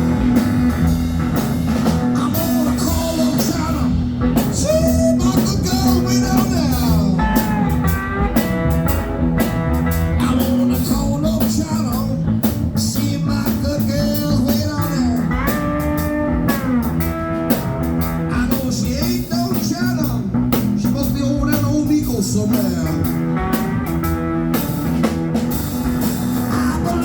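Live blues played on a cigar box guitar, an instrumental lead line with gliding, bending notes over a steady low accompaniment.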